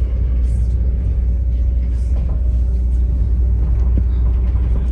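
Steady low rumble of a passenger train running, heard aboard, with a few faint clicks.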